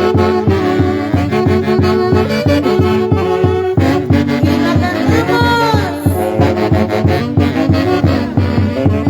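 A live Huancayo orchestra playing dance music: a horn section carries the melody over a steady, even beat. About five seconds in, one held note wavers and bends.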